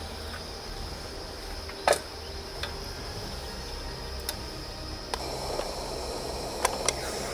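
Steady hiss of a gas camping stove burner, with a few sharp metallic clicks and knocks from the pan, the loudest about two seconds in.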